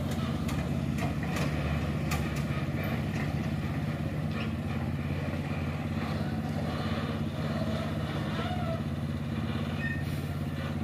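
Heavy goods vehicle engine running steadily at a constant speed, with a few sharp clicks in the first couple of seconds.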